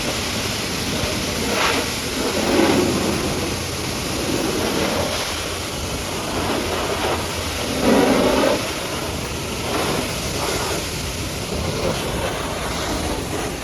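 High-pressure washer jet spraying water against a truck, a steady hiss and spatter that gets louder for a moment about two and eight seconds in.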